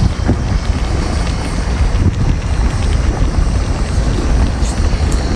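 Wind buffeting the microphone: a steady, loud low rumble that rises and falls, with a few faint clicks over it.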